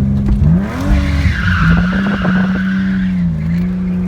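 BMW E36 drift car's engine held at high revs, its pitch climbing once early on, while the tires squeal in a screech lasting about two seconds in the middle as the car slides.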